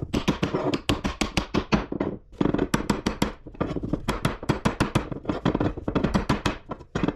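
Rapid hammer blows on metal, several strikes a second with a brief pause about two seconds in: knocking out the retaining tabs on a scrapped AC-unit part.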